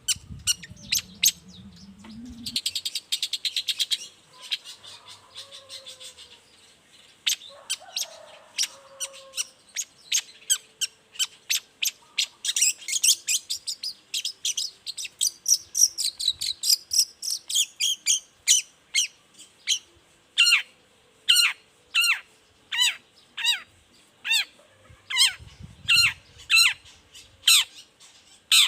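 Long-tailed shrike (cendet) calling: a quick trilled run, then dense sharp chattering, then a steady series of loud, sharp downward-slurred calls at about one and a half a second.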